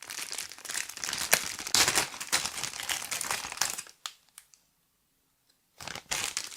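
Unboxing packaging crinkling and rustling as it is handled, a dense stretch of about four seconds, then a short burst again near the end.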